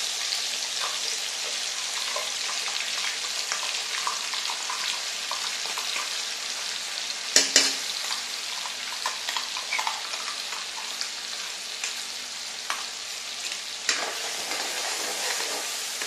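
Ground masala paste sizzling as it fries in hot oil in a kadhai, stirred with a steel ladle that scrapes and clicks against the pan. A sharp clink stands out about halfway through, and another near the end.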